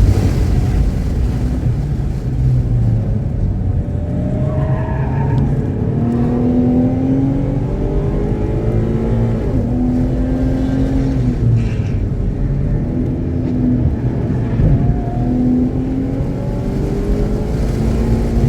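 Car engine running hard on a race track, its note climbing and dropping back again and again through gear changes. It is running cleanly, with no misfire.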